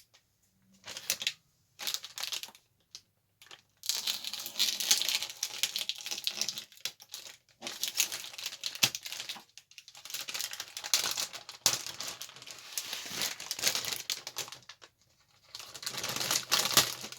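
Thin plastic bags crinkling and rustling in irregular bursts as plastic model-kit sprues are handled and worked out of their bags.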